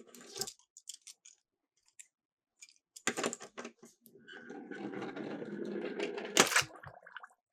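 Miniature toy cars clicking and clattering, then a few seconds of rolling rattle as they run down a plastic slope, with one sharp clack about six and a half seconds in.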